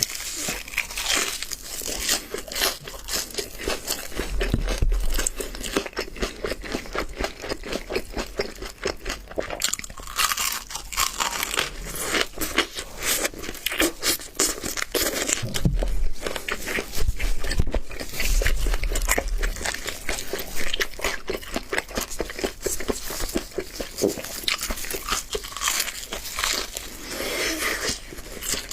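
Close-up crunching and chewing of crispy double-fried chicken drumsticks, with bites cracking through the flour-dusted fried crust in a dense, irregular run of crackles.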